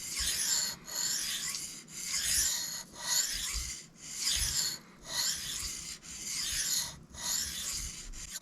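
Steel knife blade being drawn across a sharpening stone in steady, rhythmic strokes, about one a second: a gritty scraping hiss with short pauses between strokes.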